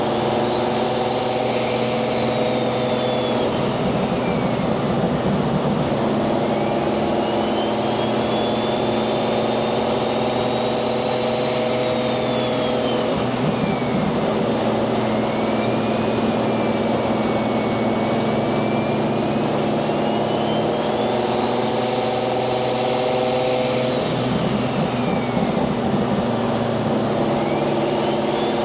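Turbocharged Toyota 1JZ VVTi straight-six in a Nissan 240SX running at a steady cruise, with the turbo's whistle rising and falling about three times as the throttle is fed in and eased off.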